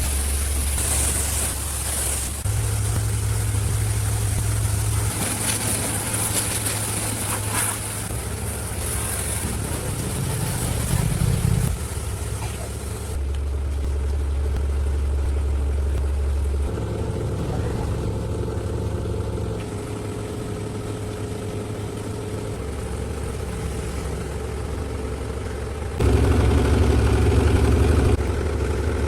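A heavy machine's engine running steadily, its low note shifting abruptly several times. It is loudest for a couple of seconds near the end.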